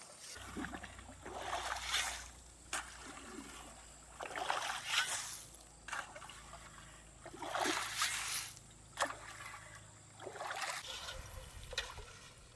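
Stream water splashing and sloshing in repeated scoops, one about every three seconds, with a short sharp knock between each.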